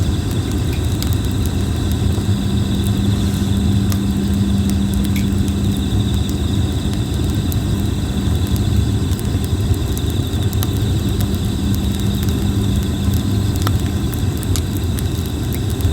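Red plum (kōbai) wood burning in a campfire, crackling with scattered sharp pops over a steady low rumble, while insects trill steadily in a high band.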